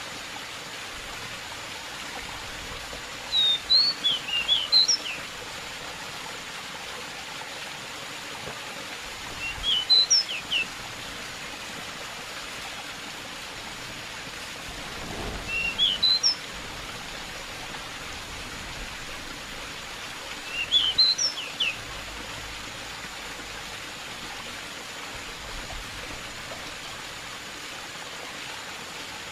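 Pied bush chat (decu) singing four short, high, twittering phrases about six seconds apart, over a steady rush of flowing water.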